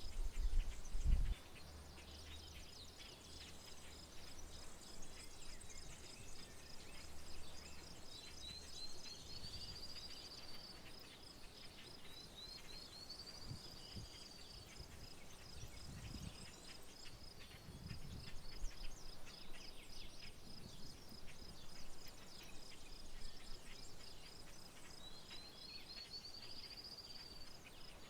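A bird sings a rising, high, whistled phrase about two seconds long three times over a steady, rapidly pulsing high trill. About a second in, a low bump, the loudest sound here, ends a brief rumble.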